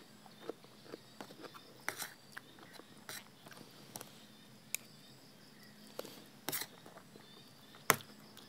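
Close-up eating sounds: chewing crisp pork cracklings (khaep mu) in chili paste, with scattered short crunches and clicks. A sharper click near the end comes as the spoon and fork work in the bowl.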